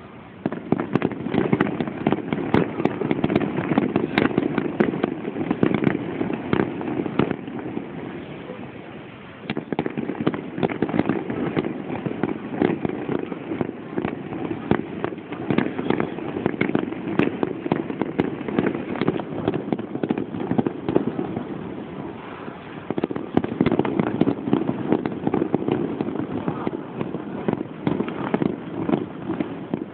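Fireworks display: a dense, continuous barrage of bursts and crackles that starts suddenly about half a second in. It eases briefly about a third of the way through and again later, then picks back up.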